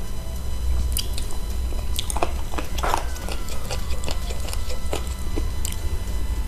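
Close-miked chewing and biting on spicy chicken feet: wet smacks and sharp little clicks, busiest about two to three seconds in, over a steady low hum.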